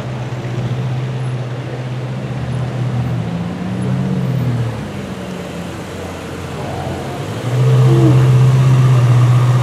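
Ferrari 488 GTB's twin-turbocharged V8 running at low revs as the car drives slowly past: a steady drone that shifts in pitch about four to five seconds in, eases off, then grows loudest as the car passes close by near the end.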